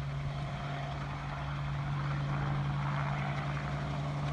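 Crop-spraying helicopter running with a steady low drone, growing slightly louder about two seconds in.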